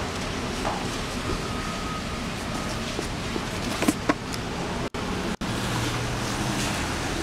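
Steady rain falling, an even hiss, with a few sharper taps about four seconds in. The sound cuts out for an instant twice soon after.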